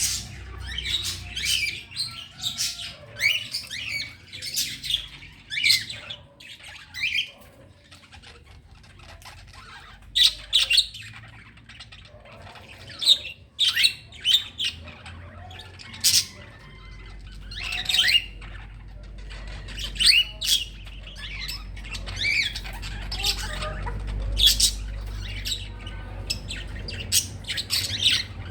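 A group of birds calling noisily together: a run of short squawks and chirps, some gliding up or down in pitch, coming every second or so.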